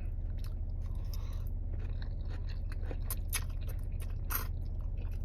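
A person chewing food close to the microphone, with irregular crunchy clicks, over a steady low hum.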